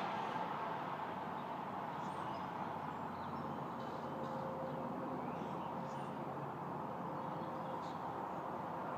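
Steady background hum of distant traffic, with a few faint, short bird chirps scattered through it.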